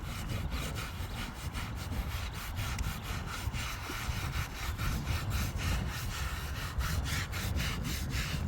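Hand scrubbing of wet fabric: rapid, rhythmic scrubbing strokes, about four a second, over a steady low rumble.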